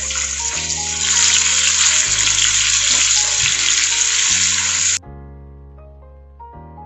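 Ground onion paste sizzling in hot oil in a frying pan, over background music. The sizzle grows louder about a second in and cuts off abruptly about five seconds in, leaving only the music.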